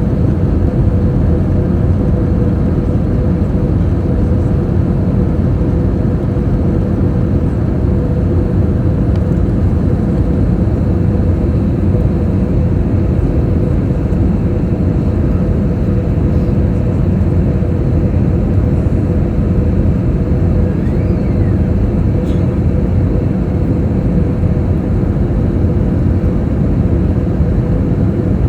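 Airbus airliner's steady engine and airflow noise, a dense low rumble with a constant mid-pitched hum running through it.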